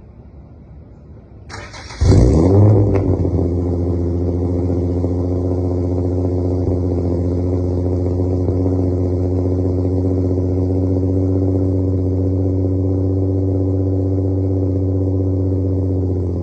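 Cold start of a 2008 Infiniti G35's VQ V6 running on E85: the starter cranks briefly about a second and a half in, the engine catches and flares up, then the revs fall and it settles into a steady idle.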